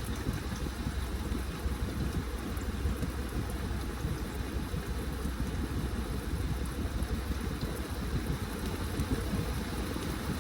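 Washing machine running a load of laundry: a steady motor hum under the churning and sloshing of water and wet clothes in the drum.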